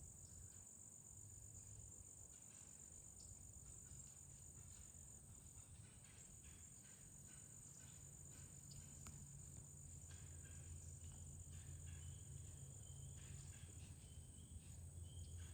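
Near silence, with the faint, steady high-pitched chirring of insects, typical of crickets, and a few faint ticks.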